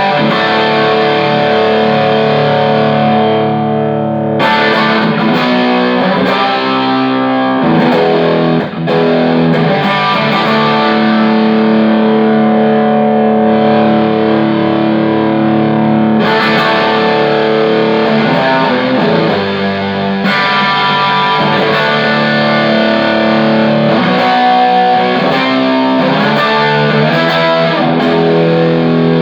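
Electric guitar played through a Fender Hot Rod Deville 212 tube amplifier with distortion, sustained chords and riffs, with a brief break about nine seconds in.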